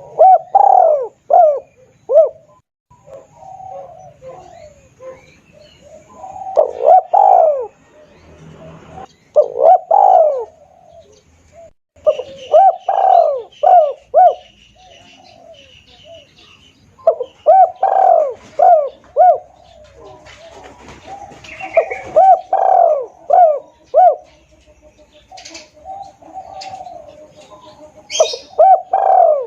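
Spotted dove cooing as a lure call: loud phrases of a few short coos that repeat every few seconds, with fainter high chirping from other birds between phrases.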